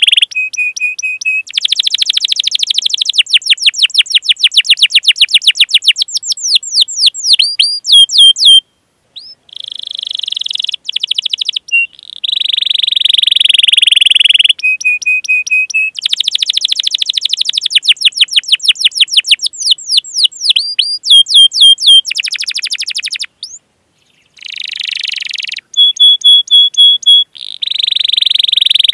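Domestic canary singing: long rolling trills and rapid repeated 'cuit cuit' chirps, loud and fast, broken by two brief pauses.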